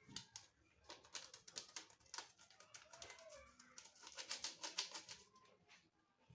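Faint, irregular clicking and tapping, thickest in the middle, with a few short low tones mixed in.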